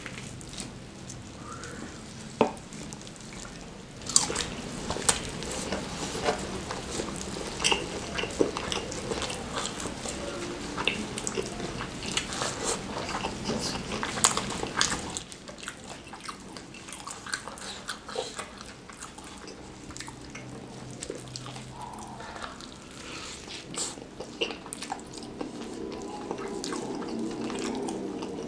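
Close-miked wet chewing and lip-smacking on fried chicken coated in chilli sambal, with sticky tearing sounds as gloved hands pull the meat apart. Dense clicks and crackles through the first half, then sparser.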